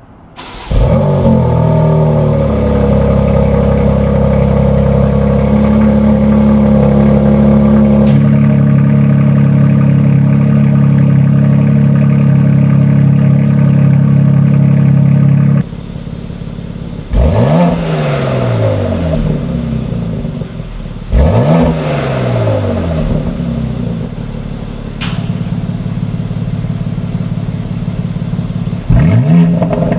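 Stock 2020 BMW X3 M Competition's twin-turbo S58 inline-six starting from cold about a second in, firing straight into a loud, high, steady cold-start idle through its factory Competition exhaust. About halfway the idle drops lower, and the engine is then revved three times, each rev rising and falling quickly.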